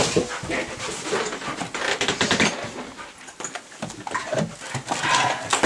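Dogs panting and moving about, with a run of quick scuffing and rustling sounds.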